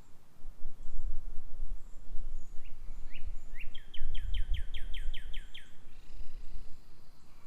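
A songbird calling a quick series of about a dozen short downward-sliding chirps, speeding up to about three a second, from about two and a half seconds in to near six seconds. Under it runs a low rumble.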